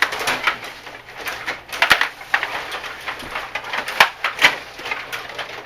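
Ice hockey play: skate blades scraping the ice and sticks clacking against the puck and ice. The sharp knocks come at irregular intervals, the loudest about two and four seconds in.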